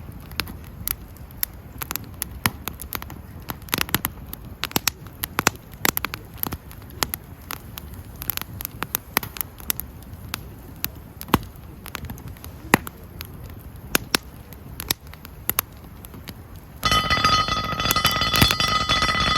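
Campfire crackling, with frequent sharp pops of burning wood. About three seconds before the end, a louder steady ringing tone comes in.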